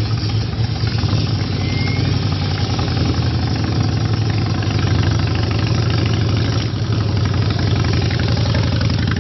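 Motorcycle engine running loud at a steady idle, with a fast even lumpy pulse.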